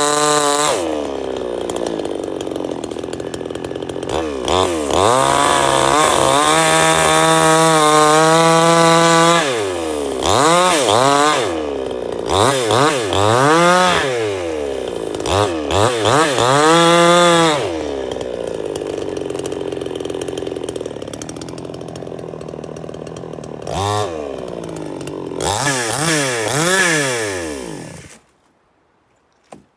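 Chainsaw engine running and being revved up and down again and again, its pitch climbing and falling in quick repeated blips, then shut off near the end.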